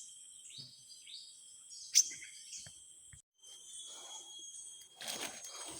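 Jungle insects (crickets) droning steadily at a high pitch, with a few short chirps of small birds early on and one sharp click about two seconds in. Rustling handling noise starts near the end.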